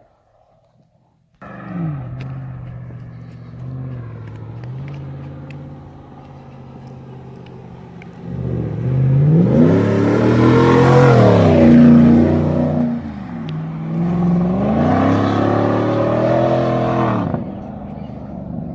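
A Chevrolet Silverado's 5.3-litre V8 with the muffler deleted, its raw exhaust note coming in suddenly about a second and a half in, low and fairly steady at first. It is then pushed hard twice, the pitch climbing and falling back each time.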